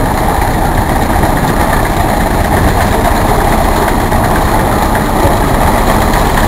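Antique tractor engine running steadily and loudly.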